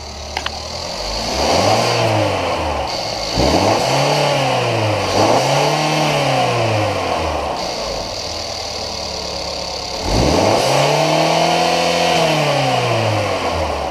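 2014 Mercedes CLA-Class 2.0L turbocharged four-cylinder engine idling and being revved four times, each rev rising and falling back to idle; the last rev, near the end, is the longest. The engine is being run to show it is in working order before sale.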